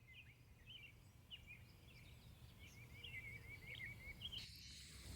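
Faint chirps and short trills of small birds, many quick notes in a row. About four seconds in the birdsong gives way to a steady high hiss over a low rumble.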